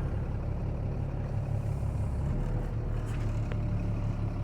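Tow truck's engine and road noise droning steadily inside the cab while it tows a car, with a slight shift in the low drone about two seconds in.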